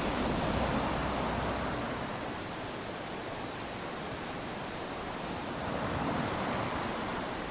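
Small waves lapping onto a sandy beach: a steady wash of surf that swells as a wave comes in at the start and again about six seconds in.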